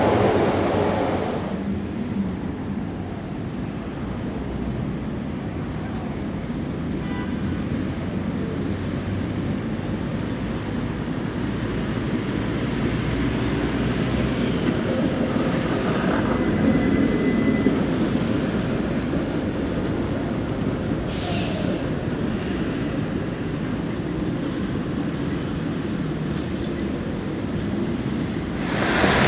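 Tram running on street track, a steady rumble of wheels on rail, with a brief high-pitched whine a little past halfway through.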